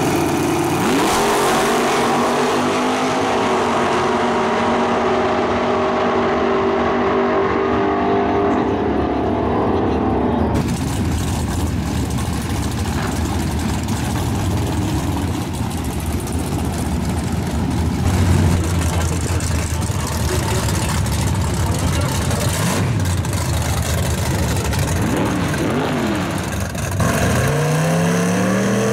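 Drag-racing car engines running loud: first with steady, shifting engine tones, then after an abrupt change about a third of the way in a long dense roar, and near the end an engine revving up.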